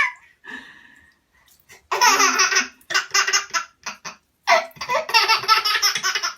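A young child laughing hard in repeated bursts of giggles, with a short lull about a second in and the longest laughing fit near the end.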